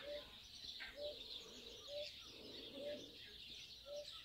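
Birds calling at a farm water trough: a short, low note repeats about once a second over a faint, high, steady chatter of other birds.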